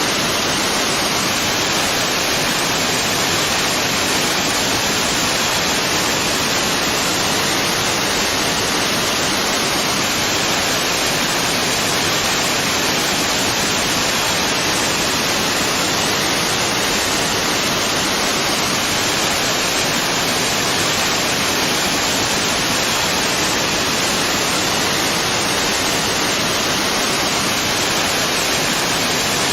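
Waterfall: water falling and splashing in a steady, unbroken rush, brightest in the upper-middle range.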